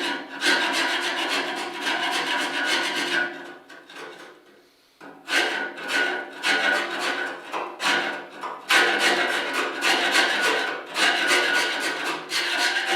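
Steel woodworking chisel scraping hard carbon soot off the steel walls of a pellet stove's combustion chamber, in rapid repeated rasping strokes, with the metal ringing under the blade. The scraping stops for about a second around four seconds in, then resumes.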